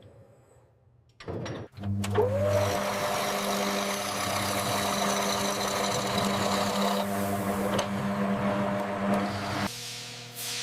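A motor-driven tool starts with a short rising whine about two seconds in, then runs at a steady hum with a hiss above it for about eight seconds before dropping off near the end.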